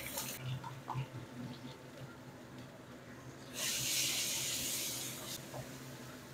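Ground spice paste of shallot, garlic, ginger and chilli sizzling in hot oil in a wok as it is stirred with a spatula. The sizzle grows louder for about two seconds a little past halfway.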